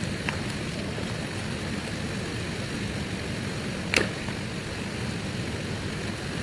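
Steady rushing noise of heavy rain, with a sharp click about four seconds in.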